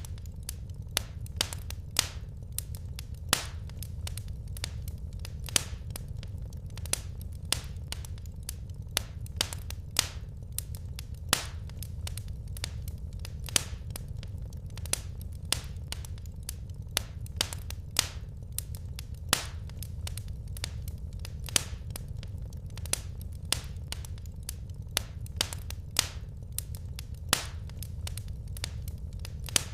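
Wood fire crackling in a fireplace: sharp, irregular snaps and pops, one to three a second, over a steady low rumble of the flames.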